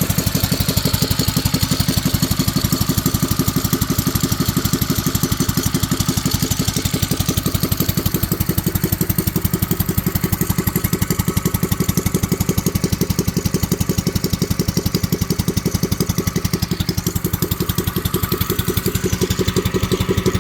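Mini bike's small engine idling steadily, with an even, rapid run of firing pulses that holds a constant speed.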